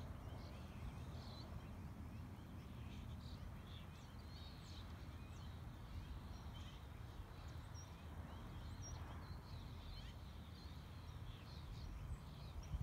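Small birds chirping, many short overlapping calls, over a low steady rumble.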